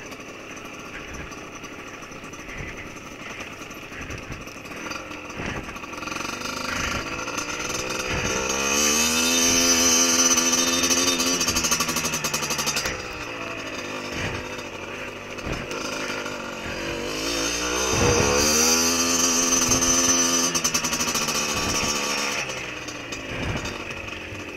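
Beta dirt bike's engine running under the rider, ticking over at first while it rolls with the clutch held in, then twice rising in pitch as the throttle opens, holding for a few seconds and dropping back.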